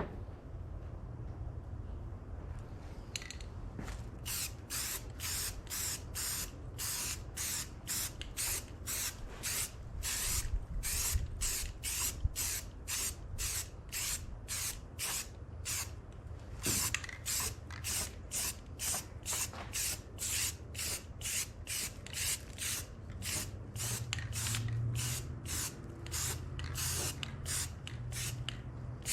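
Paint being sprayed in short, rapid bursts, about two a second, with a brief pause about halfway through, over a low steady hum.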